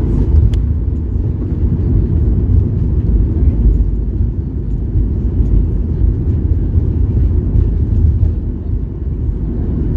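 Loud, steady low rumble of a Boeing 737 MAX 8's engines and airflow heard inside the passenger cabin, with a single sharp click about half a second in.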